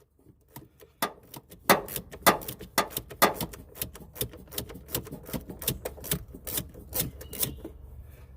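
Small ratchet with a 9/32 socket clicking in quick, uneven strokes as it backs out a blower motor mounting screw, about two or three clicks a second, stopping shortly before the end.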